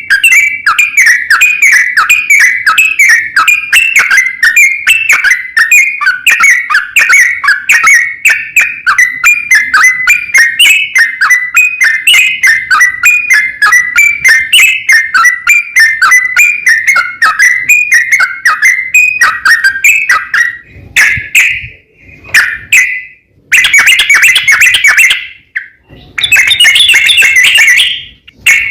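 Yellow-vented bulbul (trucukan) singing a long, rapid run of bubbling whistled notes without a break for about twenty seconds, then three shorter bursts with pauses between them.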